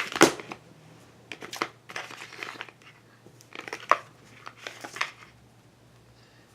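Rustling and crinkling of something being handled, in five or so short irregular bursts over about five seconds.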